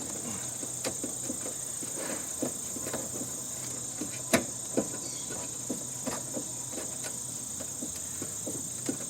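Steady high-pitched insect drone under scattered light clicks and knocks of metal parts and wiring being handled while stripping a heating and air-conditioning unit, with one sharper knock about four seconds in.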